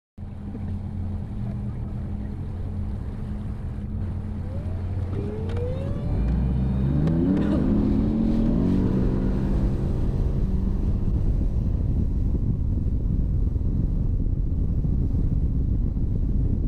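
An engine running steadily, then speeding up with a rising pitch about five to eight seconds in and holding at a louder, higher speed.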